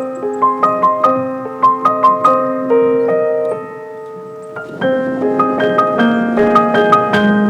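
Background piano music, a slow melody of single struck notes. It drops away for about a second near the middle, then picks up again.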